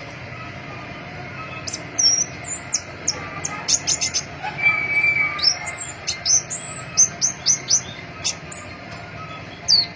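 Crimson-breasted flowerpecker (pentis pelangi) calling: a rapid series of thin, high, sharp notes and short slurred whistles that starts about two seconds in and keeps going, over a steady low hiss.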